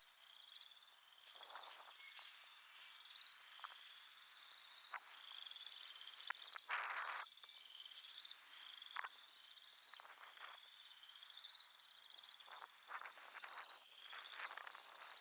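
Faint chorus of frogs calling: a steady run of short, slightly rising high trills, about two a second, with scattered brief clicks and one louder short noise near the middle.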